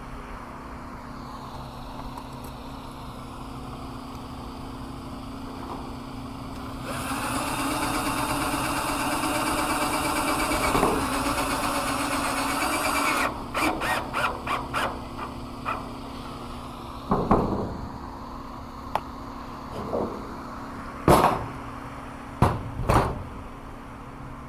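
A power drill runs for about six seconds, then gives a string of short trigger bursts, likely driving screws into the tin and hinge. Several sharp knocks follow near the end over a steady low hum.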